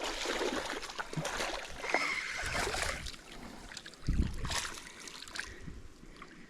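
Water splashing as a hooked Alabama bass is reeled in and thrashes at the surface, with a dull thump about four seconds in; the splashing dies down near the end.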